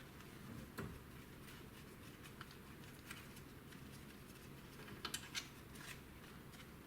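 Faint scattered clicks and taps of hand tools on metal while exhaust header bolts are worked loose, with a short run of clicks about five seconds in.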